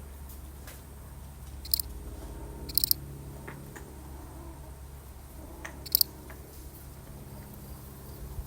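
A single field cricket chirping: three short, pulsed, high-pitched chirps, about two, three and six seconds in, with uneven gaps between them, over a steady low background hum.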